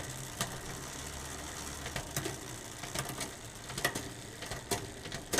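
Bicycle chain running over a 10-speed Shimano Ultegra drivetrain as the cranks are turned, with a sharp click about every second as the gears are shifted through the cassette to check the rear derailleur's adjustment.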